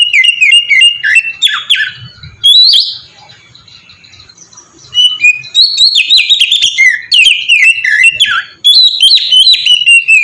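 Oriental magpie-robin singing a loud, rapid song of varied whistled notes mixed with rough, scratchy ones. It breaks off for about two seconds partway through, then sings on without a pause.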